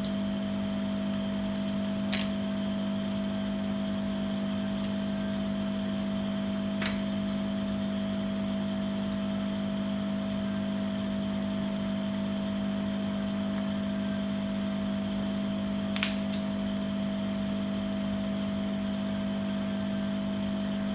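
A steady machine hum throughout, with three light clicks about two, seven and sixteen seconds in from small parts being handled during a smartphone repair.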